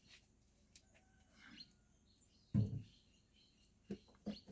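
Faint bird chirping. About two and a half seconds in comes a short, low vocal sound, the loudest thing here, and near the end two light clicks.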